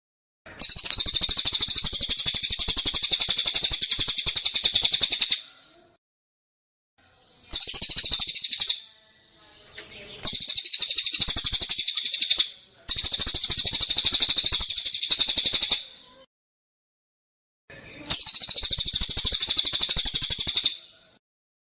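A songbird singing long bursts of very rapid, high trilled notes, each burst lasting a few seconds, with short pauses between them.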